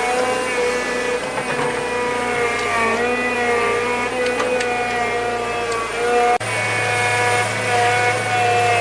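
Small engine running at high speed, its pitch wandering up and down as the load changes, with a sudden break about six seconds in.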